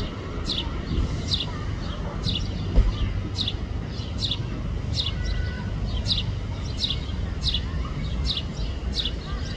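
A bird repeating a short, high, down-slurred chirp about twice a second, over a steady low rumble.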